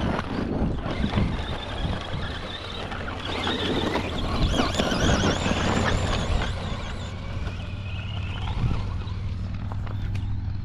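Radio-controlled car driving over rough dirt and gravel, the tyres crunching with many small knocks, while a high-pitched motor whine rises and falls with the throttle, loudest in the middle.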